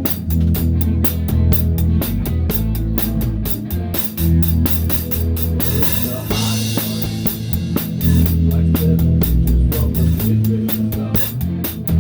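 Live rock band playing instrumentally: a Pearl drum kit with a towel-damped snare keeping a fast, steady beat on the hi-hat, with electric bass and guitar. A cymbal crashes about halfway through.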